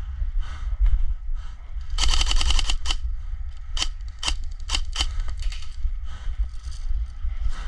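Airsoft gun firing: a short full-auto burst of rapid shots about two seconds in, then several single shots spaced about half a second apart.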